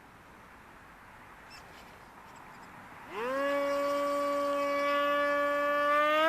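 Electric motor and propeller of a Sonik Ranger 600 RC STOL model plane, throttled up about three seconds in: a sudden steady whine that jumps up in pitch near the end as the throttle is opened further. Before it, only a low hiss of wind.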